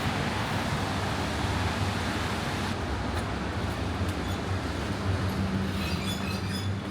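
Steady low mechanical rumble with a hum, and a run of short, high electronic beeps about six seconds in.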